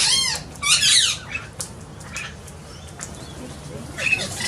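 Young sulphur-crested cockatoo giving two loud, harsh squawks in the first second, followed by quieter scattered calls and softer calls near the end.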